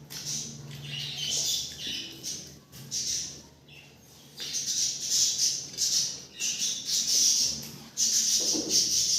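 Close-miked eating sounds of someone chewing chicken biryani: irregular bursts of wet mouth noise, busier and louder over the second half.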